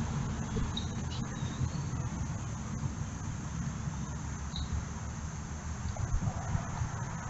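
Steady high-pitched trill of crickets or similar insects over a low outdoor rumble, with a few short, high bird chirps about a second in and again past the middle.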